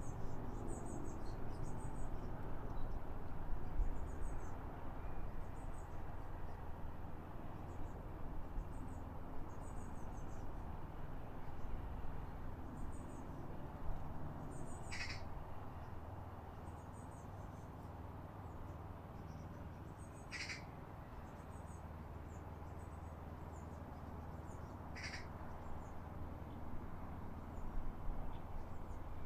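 European pied flycatchers calling: a run of short, faint, high chirps, with three louder sharp call notes spaced about five seconds apart in the middle of the stretch, over a steady low rumble.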